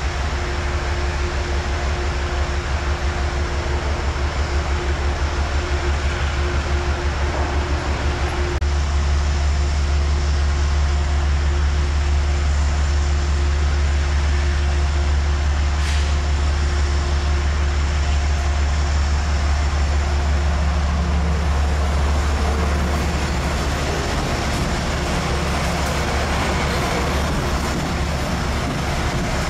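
A train running at close range: a steady low rumble with a steady hum, growing louder about eight seconds in and easing off later.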